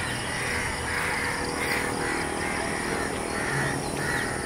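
Birds calling repeatedly, a series of short calls about one or two a second, over steady outdoor background noise.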